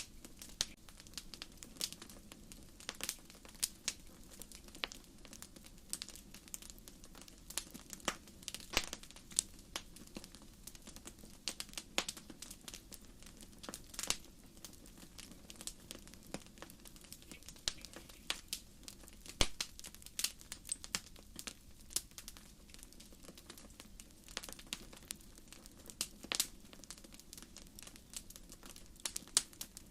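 Wood campfire burning: firewood crackling and popping in sharp, irregular snaps, several a second, over a low steady hiss of the flames.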